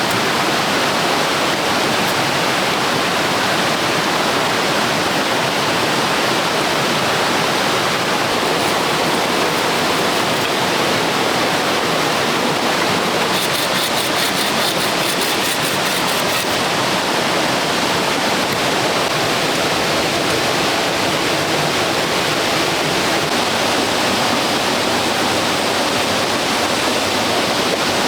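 Steady rushing of running water, like a jungle stream or small waterfall, at an even, unbroken level. About halfway through, a fast, high-pitched pulsing chirr joins for about three seconds.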